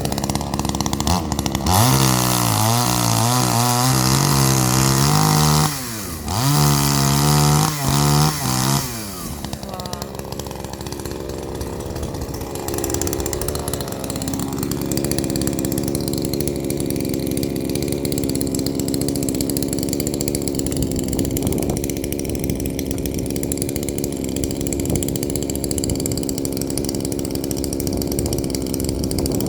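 Gasoline chainsaw run at full throttle cutting oak logs to length, in two runs of a few seconds each, then dropping back to a steady idle for the rest of the time.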